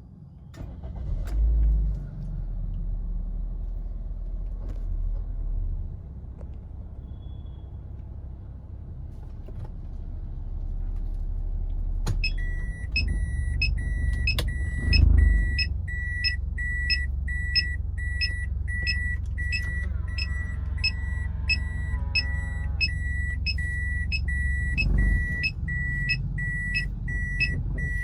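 Toyota Corolla Altis automatic running with a steady low engine rumble and a few heavy low thumps. About halfway through, a click is followed by the reverse-gear warning beeper, which sounds about twice a second. This is the noise on shifting into reverse that the owner traced to a worn-out driver-side engine mount letting the engine move too much.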